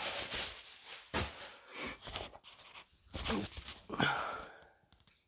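Cardboard box and plastic packaging rustling and crinkling as it is handled, followed by a couple of short breathy vocal sounds, then the noise dies away near the end.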